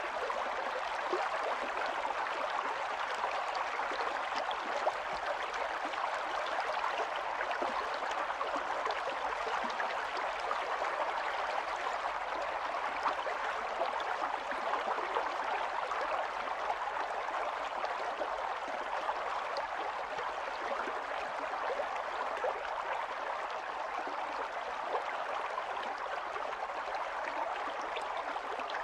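Stream of running water, a steady babbling and trickling.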